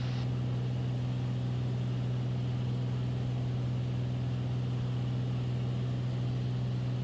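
Beechcraft Bonanza's single piston engine and propeller droning steadily in cruise-descent on approach, a constant low hum that does not change in pitch.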